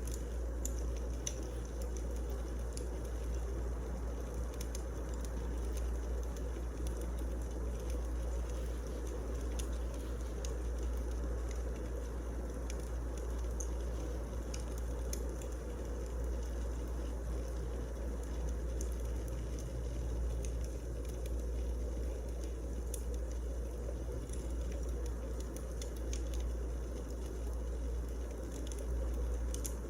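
Wood fire burning in a fireplace: a steady low rumble with many small, scattered crackles and pops.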